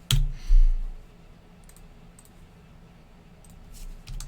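A sharp click, then a short thump with a brief rustle about half a second in. After that, a few faint scattered clicks.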